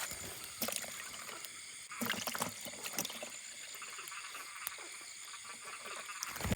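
A steady chorus of frogs and insects calling in a wet field, with a few knocks and water splashes from someone handling the catch.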